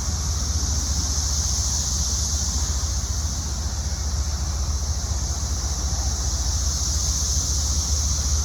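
Chorus of 17-year periodical cicadas: a steady, high, shrill buzz that slowly swells and eases, over a constant low rumble.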